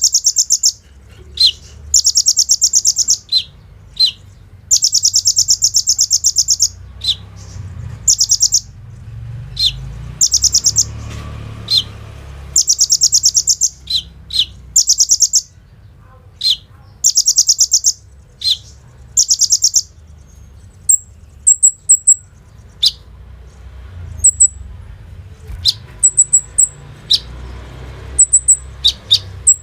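Kolibri ninja sunbird singing: fast rattling trills of about a second each, repeated and broken by short sharp chip notes. After about twenty seconds the trills stop and only chips and brief, very high twitters remain.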